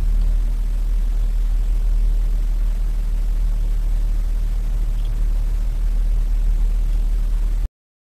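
Car engine running at low speed, heard from inside the cabin as a steady low rumble; it cuts off suddenly near the end.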